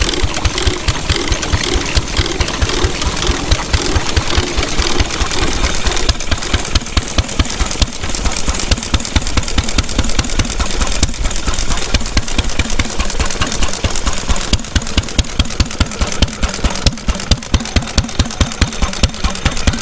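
Vintage stationary engine running with a steady, even beat of loud exhaust pulses.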